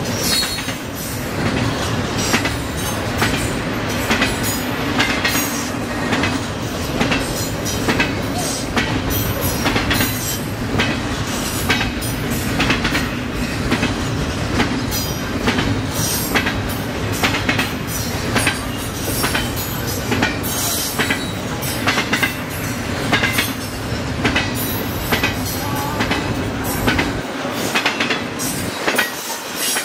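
Railcars of a long passing train rolling by, their wheels clicking steadily over the rail joints above a continuous rolling rumble. The deepest part of the rumble drops away near the end.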